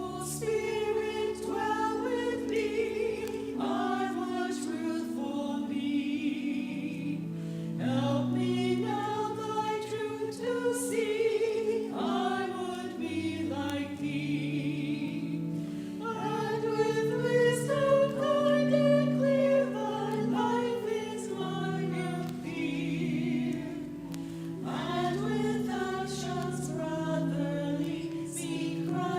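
A choir singing in a church, in continuous phrases over long held chords.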